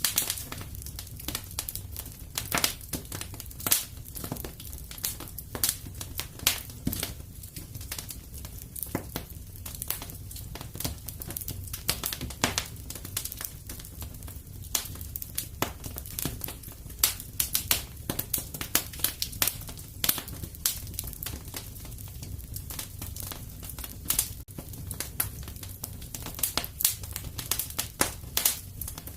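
Fire crackling in a fireplace: irregular sharp snaps and pops, several a second, over a low steady rumble.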